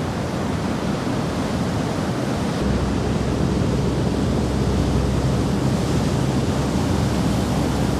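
Steady rushing noise of wind and surf. About two and a half seconds in, a low steady rumble joins it and holds.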